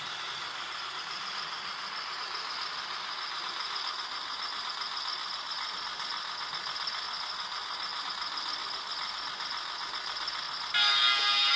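Sound decoder of a Viessmann H0-scale ÖBB Robel 54.22 track motor car model playing a steady diesel engine running sound through its small speaker, then a loud horn blast near the end.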